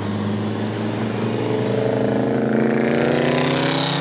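Audi S5 engine and exhaust growling, the note climbing in pitch over about two seconds as it revs up, then dropping back near the end with a rushing hiss.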